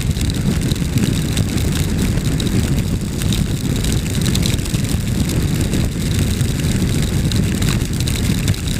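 Adventure motorcycle on the move: a steady rumble of engine and riding noise, mostly low in pitch.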